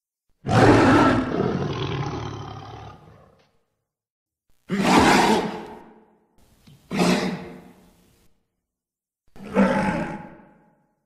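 Cave troll creature sound effect: four separate roars, the first long and trailing off over about three seconds, then three shorter ones a couple of seconds apart.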